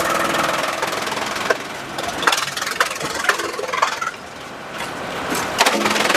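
Engine-driven sawmill machinery running, with a series of sharp knocks and clanks. The engine drone drops back after the first second and comes up loud again near the end.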